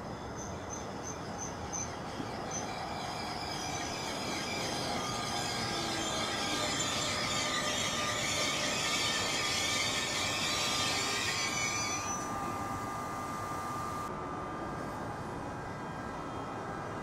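NJ Transit commuter train of multilevel cars behind an electric locomotive running past on the rails: a steady rumble and rail noise with a bright high hiss that builds and then cuts off sharply about twelve seconds in.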